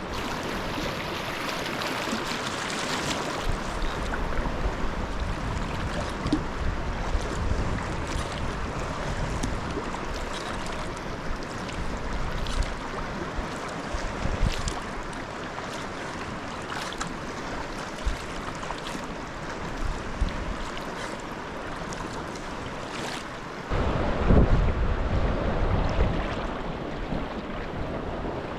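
Sea water washing and splashing around a sea kayak in a light swell, with wind buffeting the microphone; a stronger gust rumbles in about 24 seconds in.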